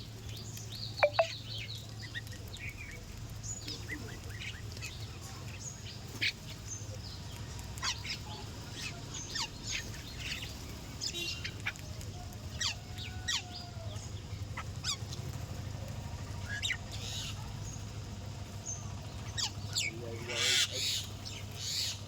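Birds chirping in short, scattered calls, with two sharp knocks about a second in and a steady low hum underneath.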